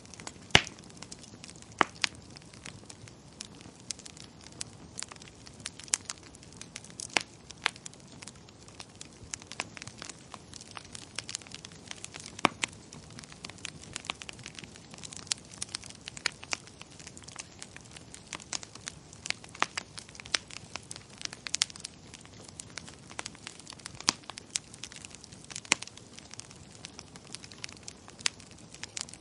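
Wood fire crackling in a fireplace: irregular sharp pops and snaps, several a second, over a soft low hiss, with the loudest pop about half a second in.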